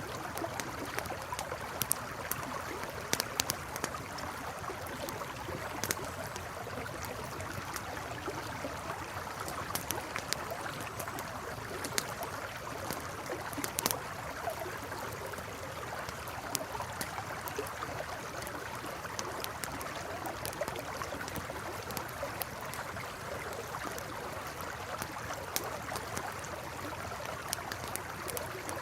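Steady rushing of a flowing river with a campfire crackling over it: irregular sharp pops and snaps from the burning wood, a few of them louder.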